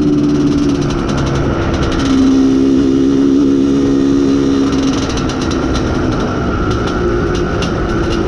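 Izh Planeta Sport's single-cylinder two-stroke engine running under way while the motorcycle is ridden, the engine being run in. Its pitch steps down about two seconds in and the sound eases about five seconds in, with scattered sharp ticks over it, more of them in the second half.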